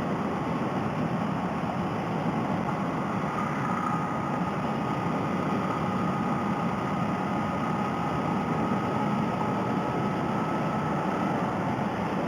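Honda Rebel 250 motorcycle riding at a steady pace, its engine and the wind rushing past heard through a helmet headset microphone as a steady drone. A faint thin whine comes in about three seconds in and fades out near the end.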